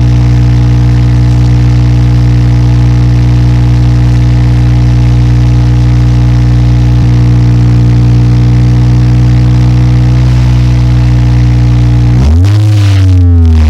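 Subaru WRX S4's turbocharged flat-four idling steadily through an STI Performance sport muffler, with a deep exhaust note. Near the end it is blipped once in neutral, the pitch rising sharply and falling straight back.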